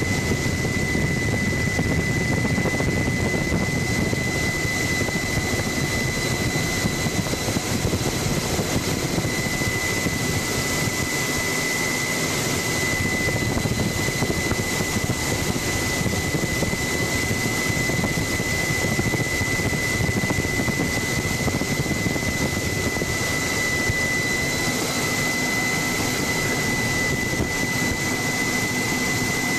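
Helicopter in flight heard from on board: a constant rushing engine and rotor noise with a steady high whine over it, unchanging throughout.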